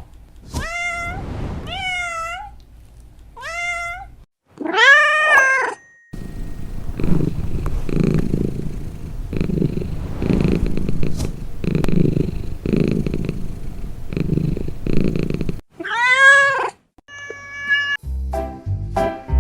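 A domestic cat meows several times, then purrs for about ten seconds in a rough sound that swells and fades roughly once a second, then meows once more. Music begins near the end.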